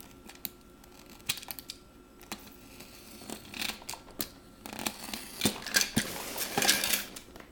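Packing tape on a cardboard shipping box being cut open: a run of scratchy rasps and sharp clicks, sparse at first and busier in the second half.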